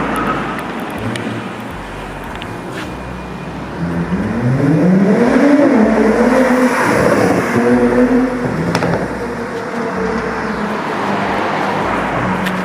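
A car engine accelerating through the gears from about four seconds in: its pitch climbs, drops back at each shift and climbs again, then settles to a steady run.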